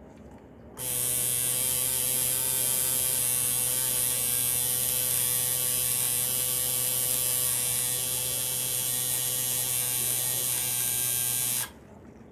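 Electric tattoo machine running with a steady buzz. It switches on about a second in and cuts off shortly before the end.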